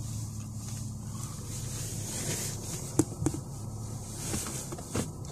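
Car engine running at low revs, heard from inside the cabin as a steady low hum, with a few sharp clicks about three seconds in and again near the end.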